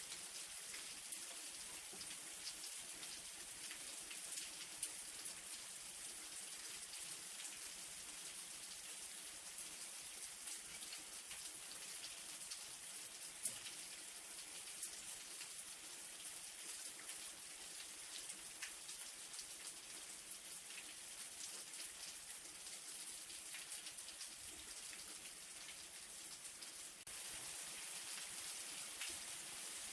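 Light rain falling steadily: a soft, even hiss with many scattered drops ticking on a surface. It grows slightly louder about 27 seconds in.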